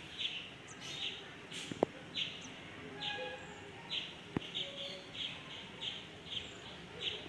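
A small bird chirping over and over, short chirps about two a second. Two sharp clicks sound in between.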